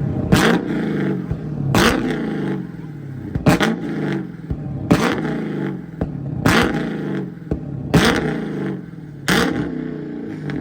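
A car engine revved hard again and again, about every second and a half. Each rev climbs quickly and falls back, with a sharp crack at the top.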